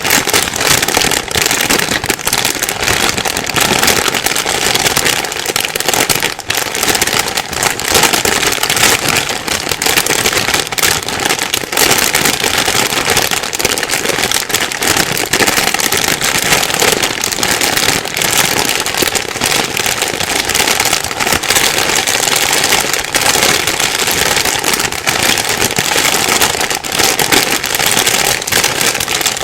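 Plastic bag being rustled and crumpled nonstop: a loud, dense crinkling crackle with no pauses.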